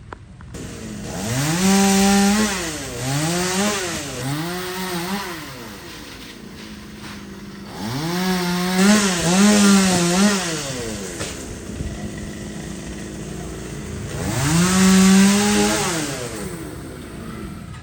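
Two-stroke chainsaw revved from idle to high speed and let back down several times, the longest burst about halfway through, dropping back to idle between bursts.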